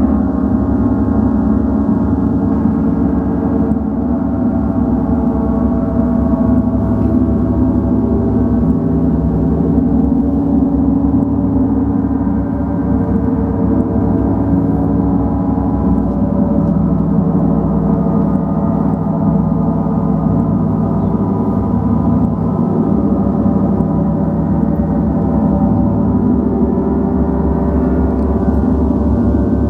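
Gong played continuously, a sustained, steady wash of many overlapping ringing tones with no separate strikes standing out.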